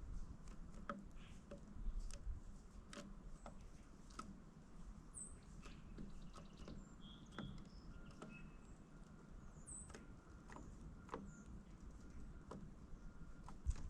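Birds at a seed feeder: scattered faint clicks and taps from pecking and landing, with a few short, high chirps.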